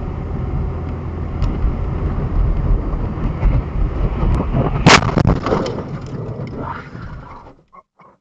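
Vehicle driving with heavy road and engine rumble, then a sudden loud crash impact about five seconds in, followed by a brief clatter of debris that fades away.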